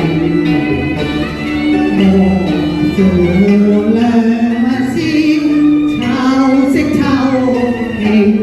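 Cantonese opera duet: a woman's voice sings long held notes with a wavering vibrato over a Cantonese opera instrumental accompaniment.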